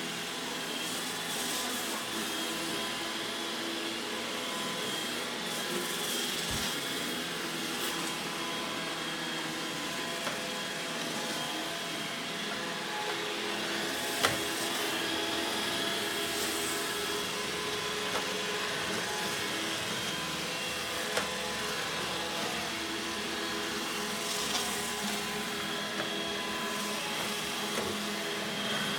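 iRobot Roomba E5 robot vacuum running: a steady whirr of its suction motor and brushes with a high whine over it. A few sharp knocks come through, the loudest about fourteen seconds in.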